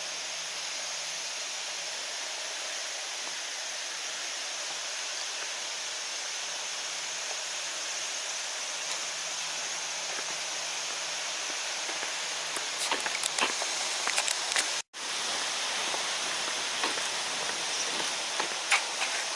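Steady outdoor hiss with no speech, joined about two thirds of the way through by a scatter of sharp ticks and clicks; a split second of dead silence near 15 seconds in marks a splice between clips.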